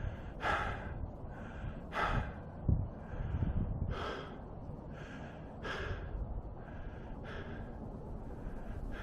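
A hiker breathing hard from a steep climb, one heavy breath about every one and a half to two seconds.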